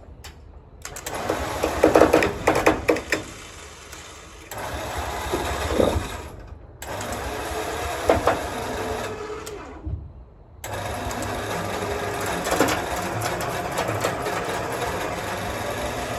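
Electric winch paying out cable, its motor whirring in several runs of a few seconds each with short stops between, and a few loud clunks a couple of seconds in.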